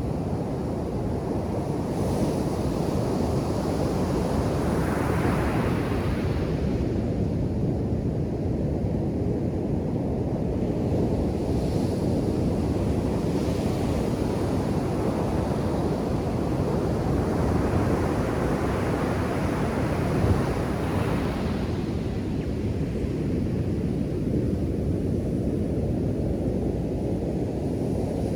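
Ocean surf washing onto a beach: a steady rushing wash with a deep rumble, swelling as a wave breaks about five seconds in and again around eighteen to twenty-one seconds.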